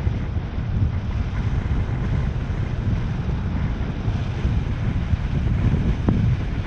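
Wind buffeting the microphone outdoors, a steady low rumble that rises and falls, with a brief knock about six seconds in.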